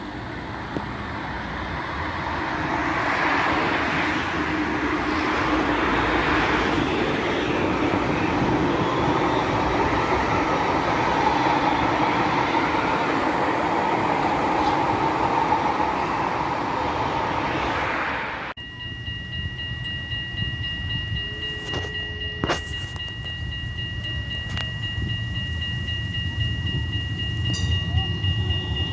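A tram rolling past, a steady noise of wheels on rail that builds and holds. After an abrupt cut comes a steady high two-note whine with a few sharp clicks, over a low rumble that grows as another tram approaches near the end.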